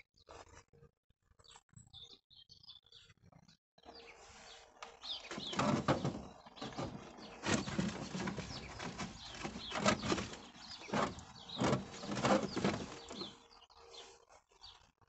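Small birds chirping now and then. From about four seconds in, a rough rustling noise with uneven thumps comes up and runs for about ten seconds, louder than the chirps.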